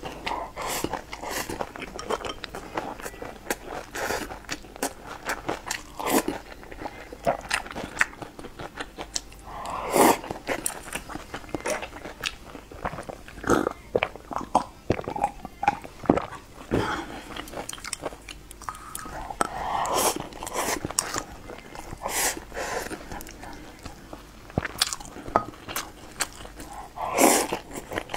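Close-miked eating: a person chewing and biting mouthfuls of rice and stir-fried food, a dense run of short mouth clicks with a few louder moments.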